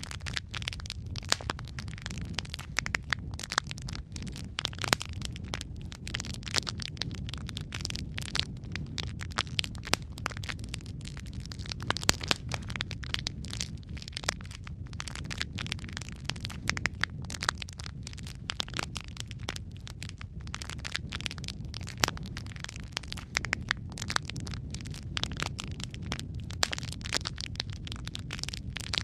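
Wood fire in a fireplace crackling: dense, irregular pops and snaps, a few louder than the rest, over a steady low rumble of the flames.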